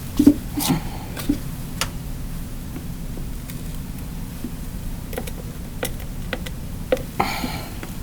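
Scattered light clicks and taps of small objects being handled, a few louder ones in the first second and again about seven seconds in, over a low steady hum.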